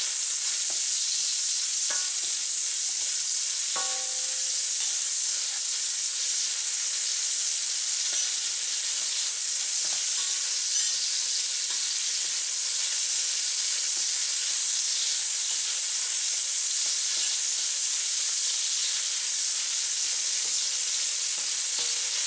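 Sliced onions sizzling in a little hot oil in a wok, frying until shiny, while a metal ladle stirs and scrapes them round the pan. A steady sizzling hiss, with occasional clinks of the ladle on the wok, two of them ringing a second or two in.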